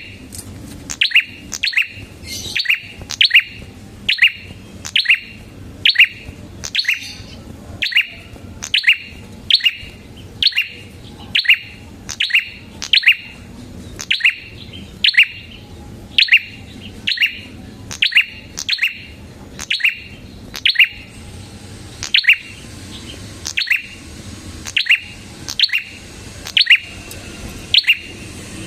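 Prenjak kepala merah (a small prinia-type songbird) calling repeatedly: short, sharp, downward-sweeping chirps, about one to two a second and often in quick pairs, in a long steady series.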